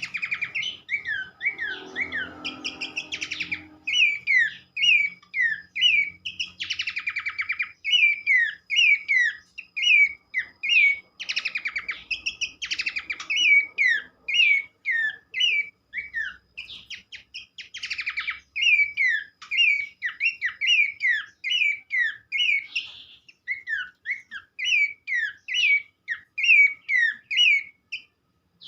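Pelanduk semak (Horsfield's babbler) calling: a quick, continuous series of short down-slurred whistled notes, broken several times by harsh, fast rattling trills. There is a brief low buzz a couple of seconds in.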